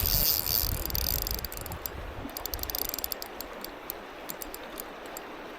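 Fishing reel ticking in a run of fast, irregular clicks while a hooked steelhead is played on light line. A low rumble is heard in the first second or so and then fades.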